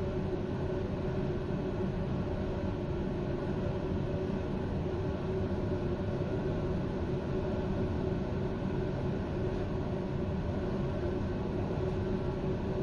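Steady rumble and hum inside a standing passenger train, from its running onboard equipment, with several steady tones over the rumble.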